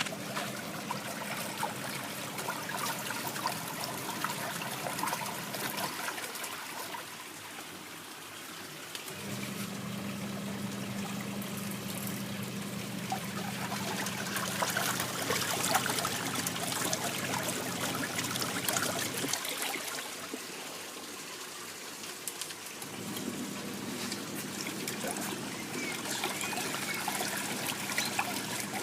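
12 kg twin tub washing machine running its wash cycle: the motor hums in spells of several seconds with short pauses between them, over steady water sloshing and trickling in the tub.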